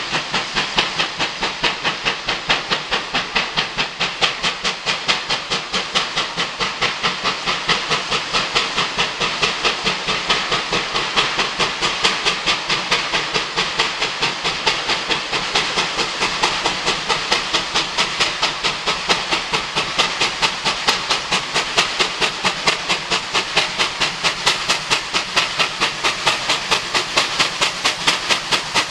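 Double-headed NSW 38 class steam locomotives 3801 and 3830 working a train, their exhaust going in rapid, even beats over a continuous steam hiss.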